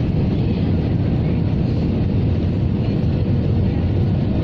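Steady low rumble of engine and airflow noise inside the passenger cabin of an Airbus A320-214 with CFM56 engines.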